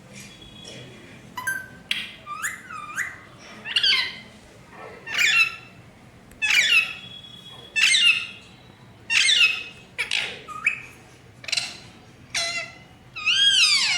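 Pet parrot giving a string of loud, harsh squawking calls, about one a second, some rising and falling in pitch, with a longer call near the end that slides down.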